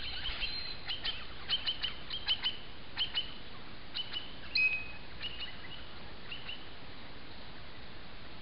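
Birds chirping: a quick series of short, high notes, many sweeping downward, that die out about two-thirds of the way through, over a steady background hiss.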